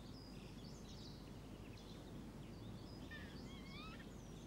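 Faint birdsong over low, steady background noise: scattered high chirps, and a short warbling call about three seconds in.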